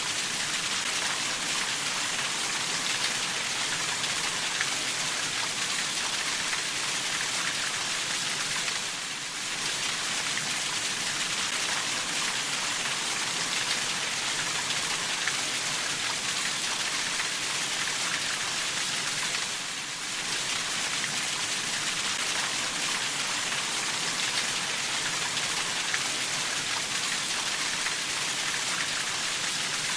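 Steady rainfall: a dense, even hiss of drops falling on a surface. The level dips briefly about every ten seconds.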